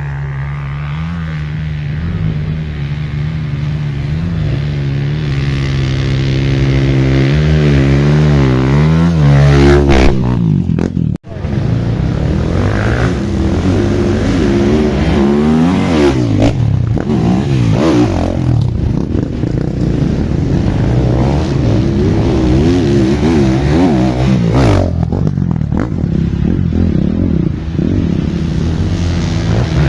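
Trail motorcycle engine running as it is ridden, its pitch rising and falling with the throttle. There is a brief sharp dropout just after eleven seconds in.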